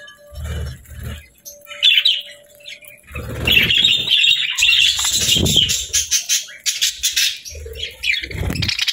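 Pet budgerigars chirping and chattering, with several short bursts of low fluttering mixed in; the chatter grows busier and louder about three seconds in.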